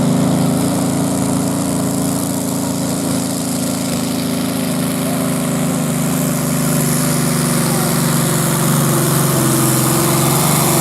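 Rover Meteor V12 tank engine in a modified pulling tractor, running steadily at full power under load during a pull.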